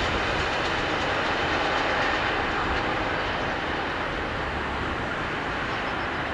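Freight train of high-sided open goods wagons rolling past, wheels running on the rails with a steady rolling noise. The noise eases a little after about halfway through, as the last wagon passes and the train moves away.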